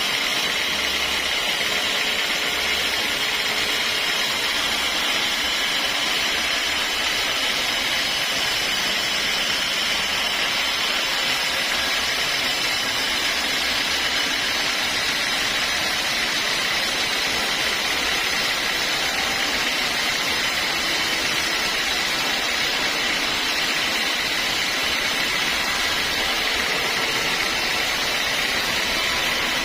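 Sawmill saw running steadily, a loud, even, high-pitched whirring that does not change.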